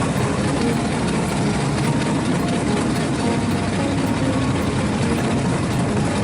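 A train's engine running steadily, a continuous low rumble with faint steady tones over it.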